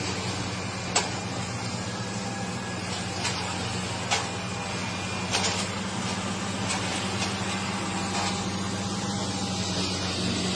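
A heavy machine's engine running steadily at an even speed, with a few short sharp clicks or knocks over it.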